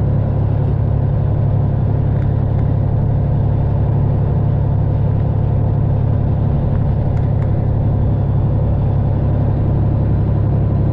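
Detroit diesel engine of a straight-piped Freightliner Classic XL semi truck running at low, steady revs while the truck rolls slowly, a continuous low drone.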